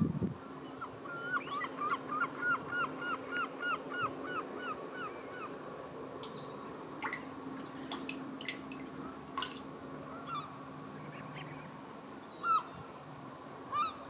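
Birds calling: a quick run of about a dozen similar calls, roughly three a second, then a few short sharp calls and two single calls near the end.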